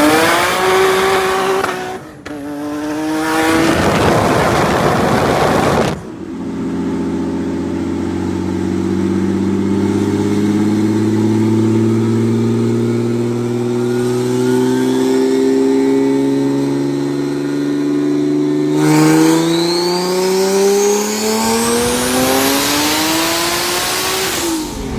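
Nissan 370Z's VQ V6 engine pulling hard at full throttle in a roll race. Its pitch climbs with gear changes about two seconds and six seconds in, then rises slowly through a long pull in a high gear, climbs faster near the end, and falls away as the throttle is lifted.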